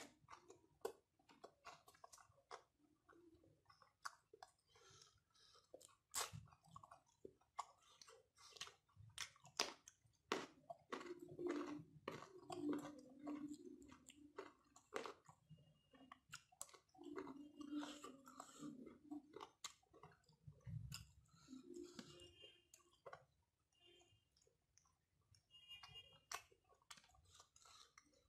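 Close-up chewing of a mouthful of rice eaten by hand: wet mouth clicks and smacks with some crunching, in quick irregular bursts.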